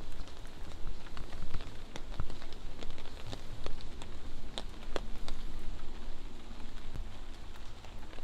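Light rain pattering, with scattered louder drops striking at irregular moments, over a steady low rumble.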